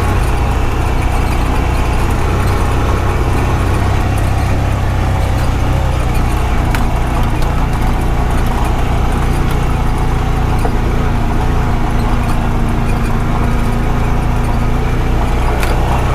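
Engine of a Honda Pioneer 520 side-by-side running steadily while driving, heard from on board, with a few light clicks.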